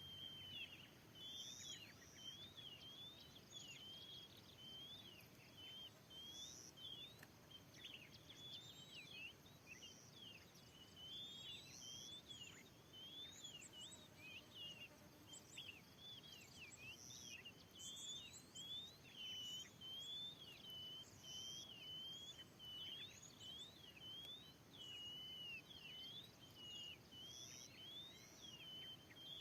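Oriental magpie-robin (kacer) calling faintly: a rapid, unbroken string of short whistled chirps and slurred notes. A short, higher note repeats every second or two behind it.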